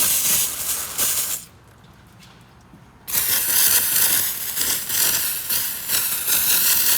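Aerosol can of brake cleaner spraying in two bursts, a short one and then a longer one of about four seconds; the can is running low.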